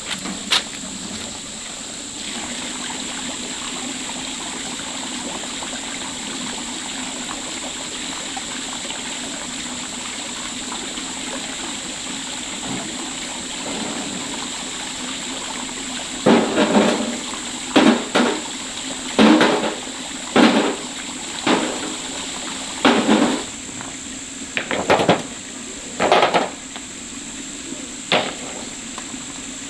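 A steady rushing noise with a constant high-pitched whine, then, from about halfway, around ten irregular heavy knocks on wood, like hammer blows on timber supports.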